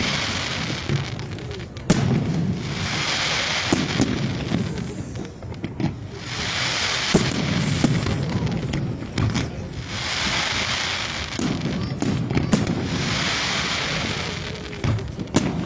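Professional display fireworks going off continuously: sharp bangs of shells bursting every second or two, over repeated stretches of hissing crackle a couple of seconds long.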